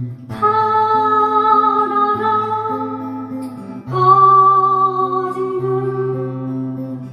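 A voice singing two long held notes over an acoustic guitar accompaniment in waltz rhythm.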